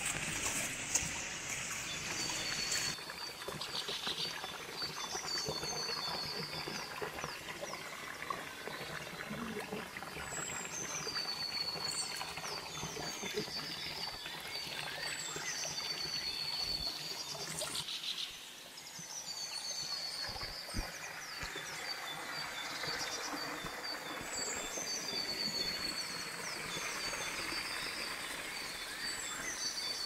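A bird singing the same short high phrase over and over, each one sliding down and then levelling off, over the steady trickle of a shallow forest stream.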